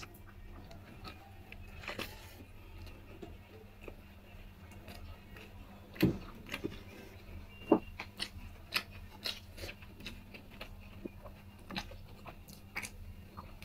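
A person eating rice and vegetable curry by hand: chewing, with scattered small clicks and crunches, the loudest about six seconds in and a quick run of small ones near the end.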